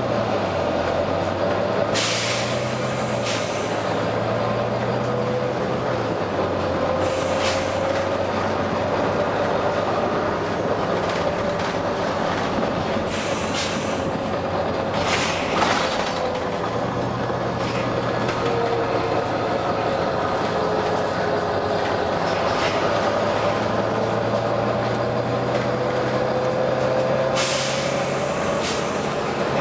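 Volvo B9TL double-decker bus running, its engine hum and a drivetrain whine rising and falling in pitch as it speeds up and slows. Short hisses of air from its air system break in about seven times, the sharpest about halfway through.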